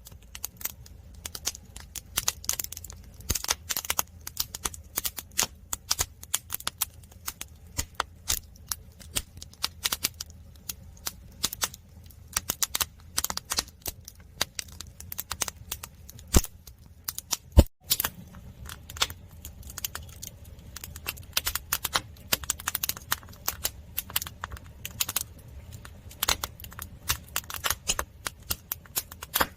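Firewood burning in a traditional Korean agungi fire hole: dense, irregular crackling and popping over a low steady rumble of the fire, with one louder pop a little past halfway.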